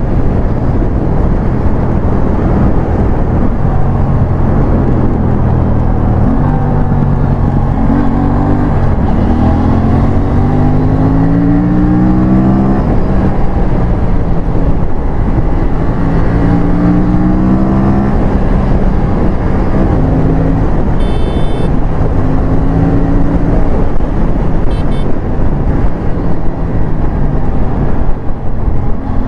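Aprilia RS457's 457 cc parallel-twin engine pulling hard, its revs climbing again and again and dropping back at each upshift, over heavy wind rush on the microphone.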